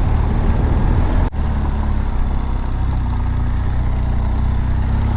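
BMW R1200GS flat-twin (boxer) engine running at low, steady revs while riding, picked up by a helmet microphone under a steady rush of noise. The sound drops out briefly about a second in.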